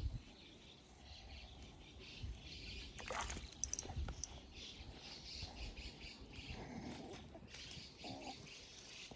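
Birds chirping and calling outdoors, with a few sharp clicks about three seconds in.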